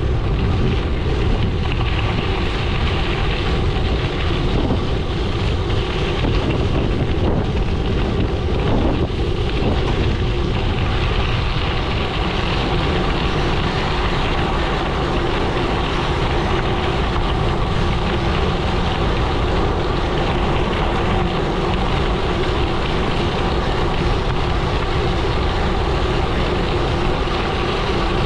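Gravel bike tyres rolling steadily over a gravel road, a continuous noise with a faint steady hum, mixed with wind noise on the microphone.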